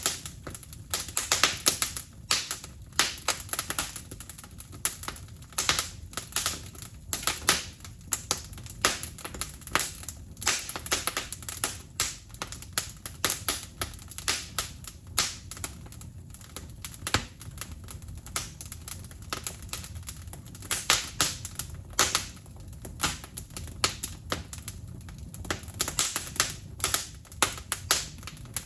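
Wood fire crackling: irregular sharp pops and snaps, many a second, over a steady low background noise.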